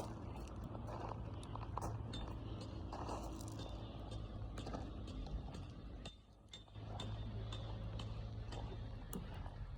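Wood campfire crackling, with scattered sharp pops and ticks over a steady low rumble; the sound drops away briefly about six seconds in.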